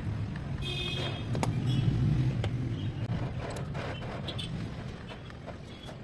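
Royal Enfield Diesel Bullet's single-cylinder diesel engine running with a steady low rumble, growing louder about two seconds in and then easing off.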